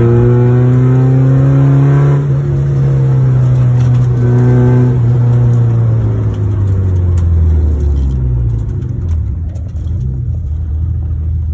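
Porsche 944's four-cylinder engine heard from inside the cabin while driving. It pulls with revs climbing over the first two seconds, eases off, and pulls again around four to five seconds in. The revs then fall away and the sound grows quieter over the last few seconds.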